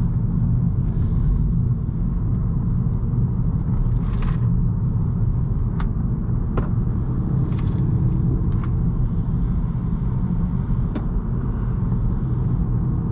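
2018 Honda Accord's 1.5-litre turbocharged four-cylinder and its tyres on the road: a steady low rumble at an even pace, with no revving. A few faint sharp clicks are heard now and then.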